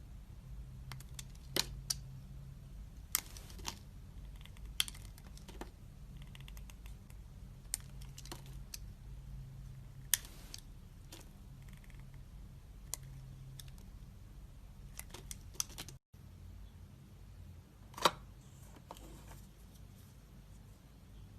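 A knife blade cutting into a bar of soap: scattered crisp clicks and snaps at an irregular pace, with one louder crack near the end.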